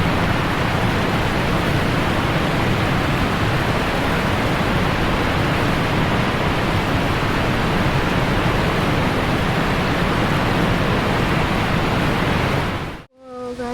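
Steady, loud rush of falling water from a waterfall, cutting off abruptly near the end.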